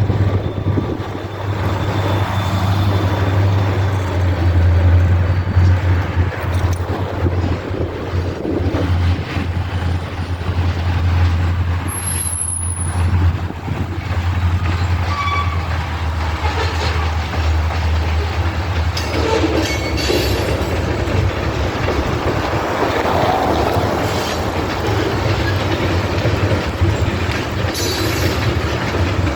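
A train of diesel-electric locomotives running, with a steady low engine drone over the noise of steel wheels rolling on the rails. A brief high wheel squeal comes about 12 seconds in.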